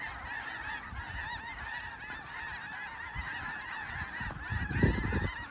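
A huge flock of snow geese calling all at once, a dense, continuous din of many overlapping high calls. Near the end a brief low rumble on the microphone is the loudest moment.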